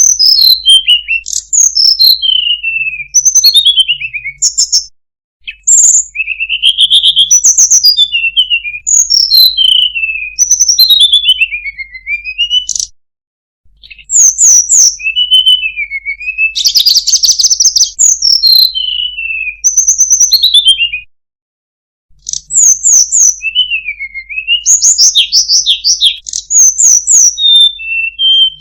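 Tledekan gunung (Sunda robin) singing loudly: quick runs of clear whistled notes, each sliding down from high to lower pitch, in bursts of several seconds with short pauses between them. A faint low hum sits under each burst.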